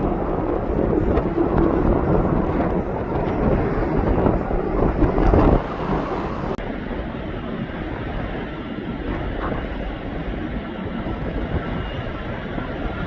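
Aircraft engine noise mixed with wind buffeting the microphone, a steady low rumbling rush. It is loudest in the first half and drops a little about five and a half seconds in.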